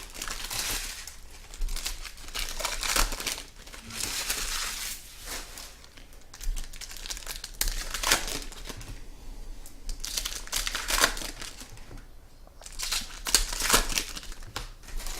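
Plastic and paper trading-card packaging crinkling and rustling in irregular bursts as card boxes and packs are handled and opened.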